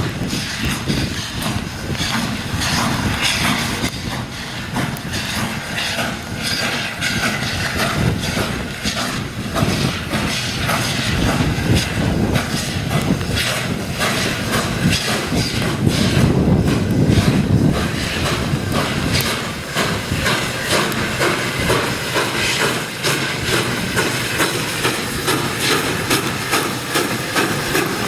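Steam train moving over jointed track: wheels clicking and clanking over the rail joints, with steam hissing. The low rumble swells for a couple of seconds a little past halfway.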